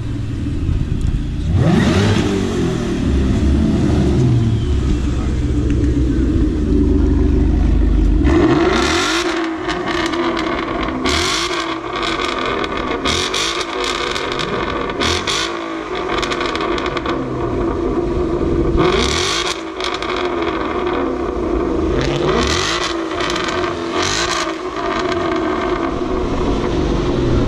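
Ford Mustang engines at a car meet: a heavy, steady low rumble, then from about eight seconds in a series of sharp throttle blips, each rising and falling in pitch.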